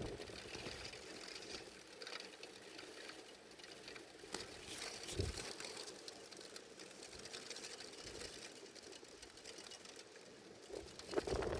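Strong wind gusting over the microphone: a steady hiss with low rumbling buffets that swell about five seconds in and again near the end.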